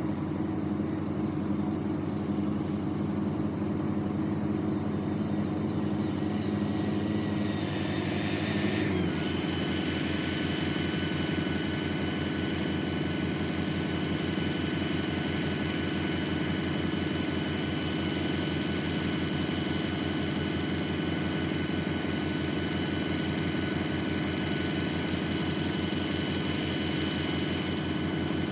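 A vehicle engine running steadily. About nine seconds in its note drops to a lower, more pulsing speed and a steady high whine comes in and holds.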